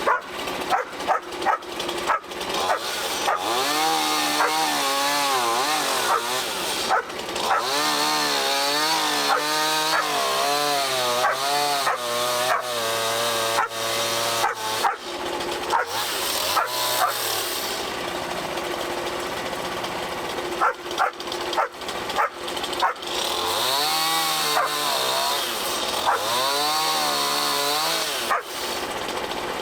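Dogs barking over and over, with long wavering howls, over the steady running of a portable bandsaw mill cutting a black walnut log.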